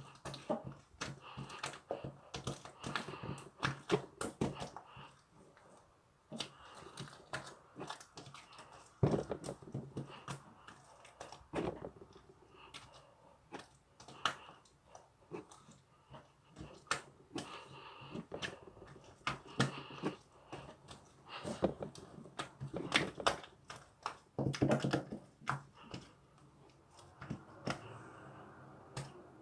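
Marbled slime being squeezed and kneaded by hand: an irregular stream of small clicks and pops, some in quick clusters.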